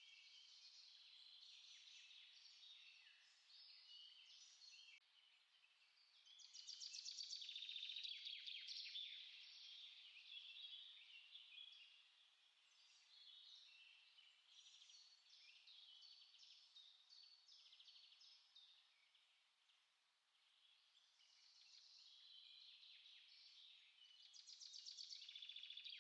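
Songbirds singing in a chorus: many overlapping high chirps and trills, with a louder, rapid trill about a quarter of the way in and again near the end.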